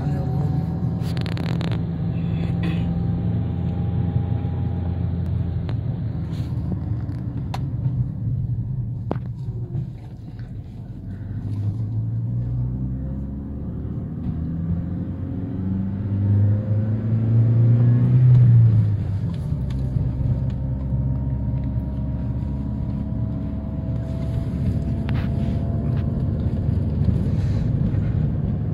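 Vehicle engine and road noise heard from inside the cabin while driving. About halfway through, the engine note rises in pitch and grows louder, then drops back to a steady run.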